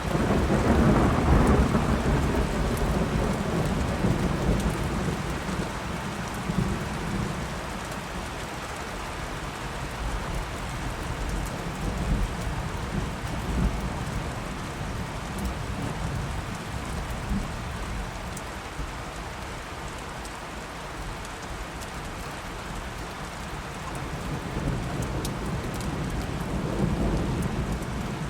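Thunderstorm: steady rain with rolling thunder, a low rumble at the start that dies away over several seconds, and another rumble building near the end.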